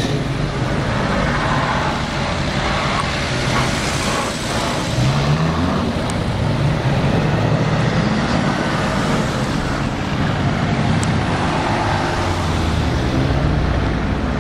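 Sports cars, among them a Mercedes-AMG GT's V8 and an Alfa Romeo 4C, pulling away one after another at low speed with engines running. The engine note rises briefly about five seconds in and again near the end.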